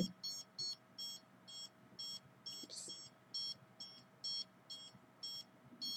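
An electronic meter's alarm beeping: short, high-pitched beeps about twice a second at uneven spacing, over a faint steady hum.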